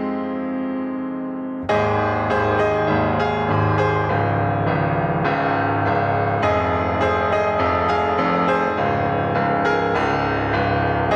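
Background music: a piano piece, a held chord dying away, then notes struck at a steady pulse from about a second and a half in.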